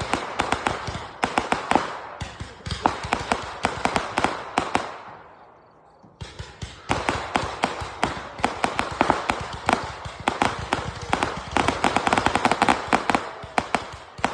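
Fireworks crackling: dense, rapid pops and cracks that fade out about five seconds in, then a second, longer stretch of crackling begins about a second later.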